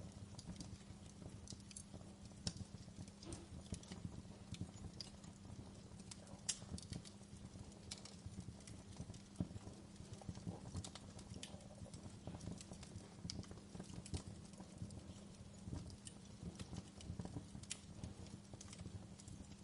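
Wood fire crackling: frequent small, sharp pops scattered irregularly over a soft low rumble of burning, with a couple of louder snaps.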